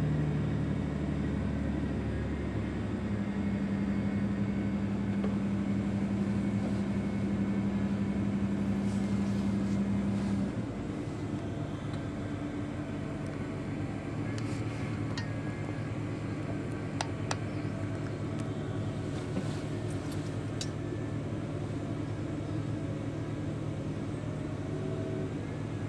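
Heavy piling-rig engine and machinery running steadily with a strong hum. About ten seconds in the hum drops away and the machine settles to a lower, slightly quieter run, with a few sharp clicks later on.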